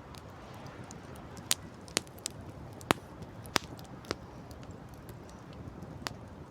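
Campfire crackling: about seven sharp, irregularly spaced pops over a steady rush of wind and sea.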